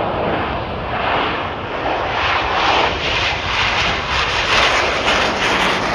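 A fixed-wing aircraft's engines running loud as the plane flies past, the sound growing brighter and stronger from about two seconds in.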